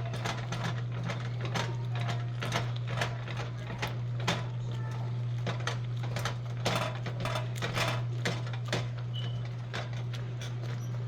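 Hot cooked beans being mashed in a pot with a masher: irregular clacks and knocks of the masher striking the pot, several a second, over a steady low hum.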